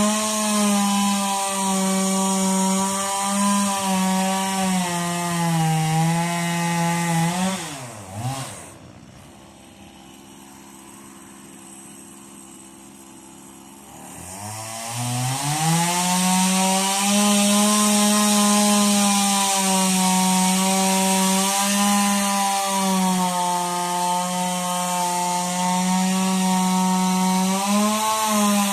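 Stihl two-stroke chainsaw running at high revs, its pitch wavering under the load of cutting wood. About eight seconds in the throttle is let off and it drops to idle for about six seconds, then it revs back up and cuts on.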